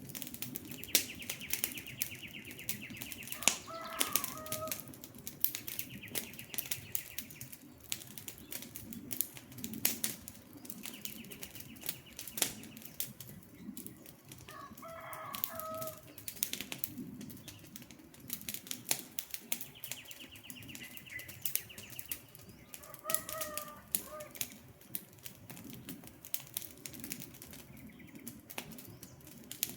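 Campfire crackling and popping in sharp snaps over a low rumble of burning wood. A bird calls three times in short two-note phrases, and a high buzzing trill repeats every few seconds.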